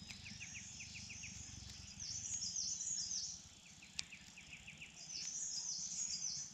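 A bird singing in two short bursts of quick, high, falling notes, over a faint rapid ticking. A single sharp click comes between the bursts.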